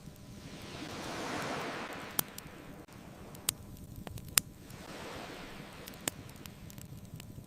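Ocean waves washing in twice in slow swells, with a wood fire crackling over them in four sharp pops, the loudest a little past the middle.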